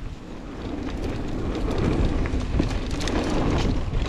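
Mountain bike rolling along a dirt trail: tyre rumble on the ground with many small clicks and rattles from the bike, getting louder over the first couple of seconds as it picks up speed.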